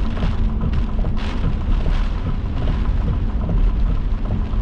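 Rain and wind noise in a moving vehicle during a severe thunderstorm: a steady deep rumble of road and engine under an even hiss of rain, with a few brief spatters.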